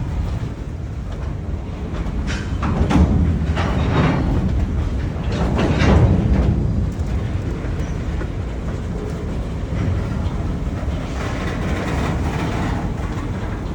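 Freight train cars rolling by with a steady low rumble. Irregular sharp clicks of the wheels over rail joints come several times in the first six seconds.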